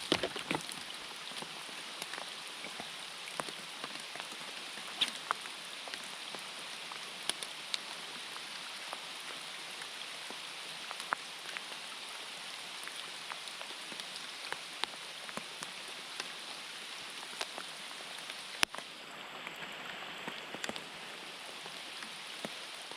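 Steady rain falling, an even hiss dotted with many sharp ticks of single drops landing close by, and one louder knock about nineteen seconds in.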